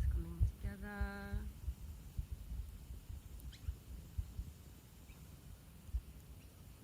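Wind buffeting the microphone in irregular low thumps, strongest at first and easing off, with one short, steady pitched call a little under a second in and a few faint high chirps in the middle.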